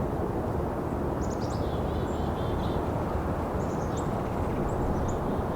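Small songbirds of a mixed winter flock calling, with scattered short, high, thin chirps and notes, over a steady rumble of distant highway traffic.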